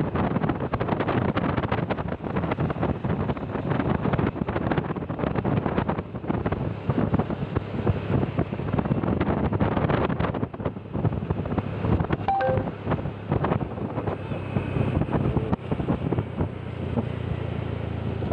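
Wind buffeting the microphone, rough and gusty throughout. Near the end it eases a little and a low steady hum shows underneath.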